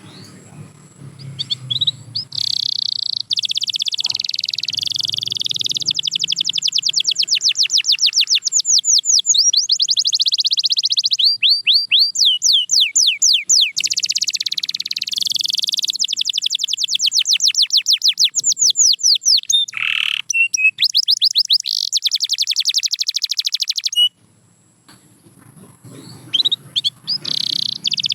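Canary singing a long song of fast trills: rapid runs of repeated high notes alternating with sweeping whistled notes. The song breaks off briefly near the end, then resumes.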